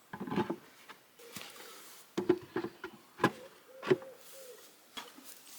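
Light knocks and clatters of things being handled, about half a dozen separate taps, with a brief squeak about four seconds in.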